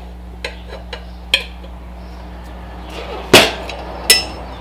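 Metal tire irons clicking and knocking against a dirt bike wheel rim as a tire is levered on: a few light clicks, then two loud metallic knocks near the end, the second ringing briefly.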